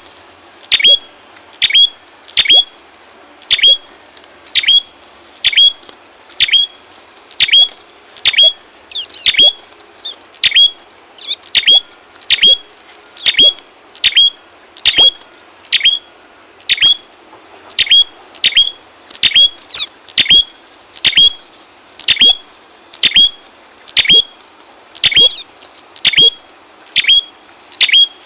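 Prenjak kepala merah bird-lure recording: a sharp, high chirping call repeated steadily about one and a half times a second, with bursts of faster overlapping chatter now and then.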